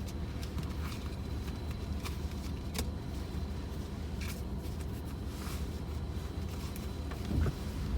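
Car cabin noise while driving: a steady low road rumble, with scattered light ticks.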